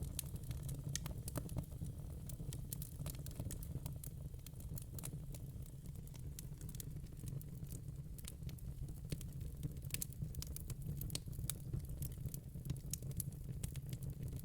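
Wood fire in a fire pit crackling: irregular sharp pops and snaps over a steady low rumble.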